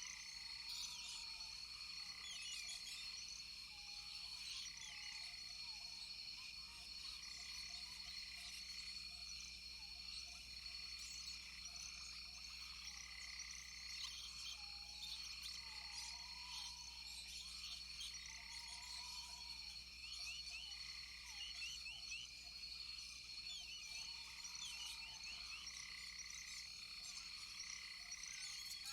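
Rainforest chorus of frogs and insects: a steady high-pitched insect drone, with frog calls repeating about every two seconds and many short chirps and croaks scattered throughout.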